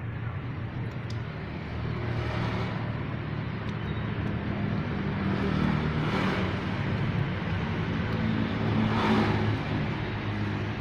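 Road traffic: a steady engine hum with vehicles passing, swelling and fading about two, six and nine seconds in.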